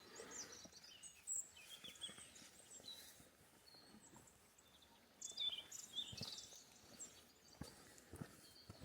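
Faint forest birdsong: several birds giving short, high chirps and calls over a soft background hiss, with a few soft low thuds in the last few seconds.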